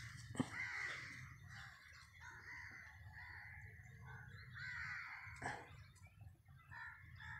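Birds calling over and over: short, arching calls one after another, faint over a low rumble. A sharp click about half a second in and a knock about five and a half seconds in.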